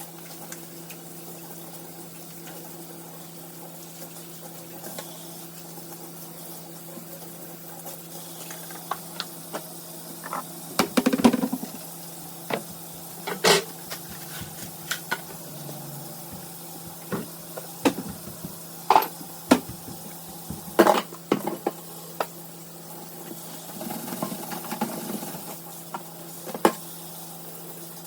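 Dishes and utensils clinking and clattering now and then as they are washed by hand, over a steady low hum.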